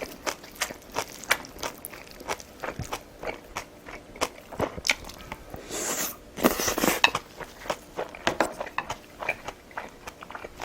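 Close-miked chewing and biting of food, with many quick wet mouth clicks and smacks, and a louder, denser stretch of noise about six seconds in.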